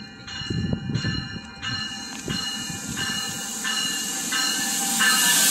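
Commuter train pulling into a station: a rush of wheels on rail that grows steadily louder as it nears, with a bell ringing steadily, about three strokes every two seconds.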